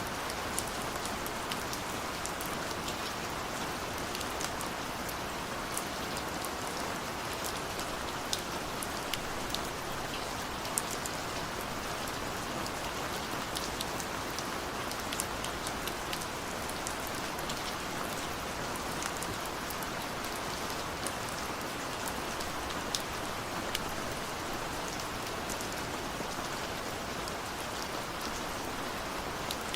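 Steady rain pattering on window glass, with scattered sharp drop ticks over an even hiss.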